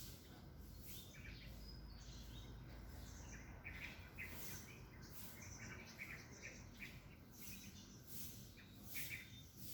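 Faint, scattered short bird chirps and calls from small birds, over a steady low background rumble.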